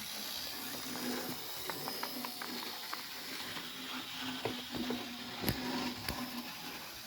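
Toy train running on its track: a low motor hum that comes and goes over a steady hiss, with light ticks from the wheels and two sharper clicks about five and six seconds in.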